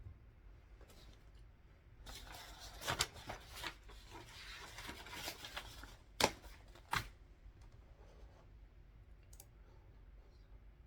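Sheets of paper being handled and shuffled, with a rustle lasting about four seconds and a few crisper crackles in it, followed by two sharp clicks or taps a little under a second apart.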